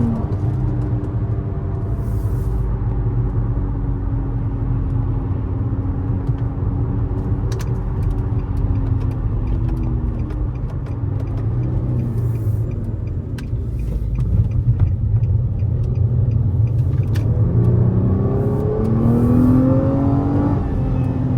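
Nissan Maxima SR's V6 running through a Corsa aftermarket exhaust while driving, with a deep steady drone under load. The pitch dips at about ten seconds, then climbs as it revs up near the end and drops off again.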